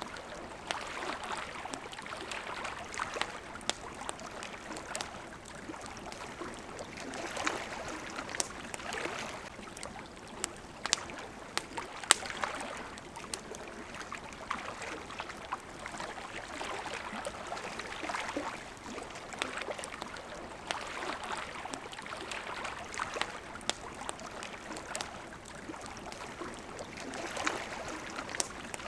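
Campfire crackling with scattered sharp pops, the loudest about twelve seconds in, over water lapping at the shore in soft swells every couple of seconds.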